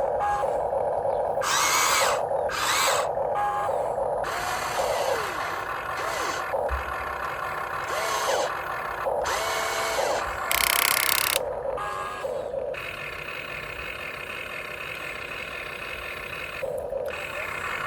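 Huina 1592 RC excavator's electric motors whining in repeated start-stop bursts as it digs, some bursts gliding up or down in pitch. The sound settles into a steadier, quieter run about two-thirds of the way through.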